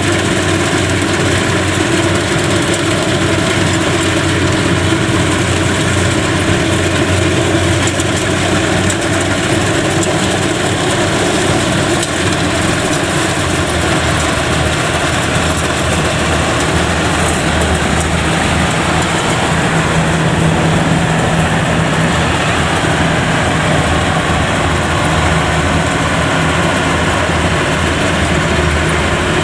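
Yanmar YH85 combine harvester's diesel engine running steadily under load as the tracked machine works through deep mud.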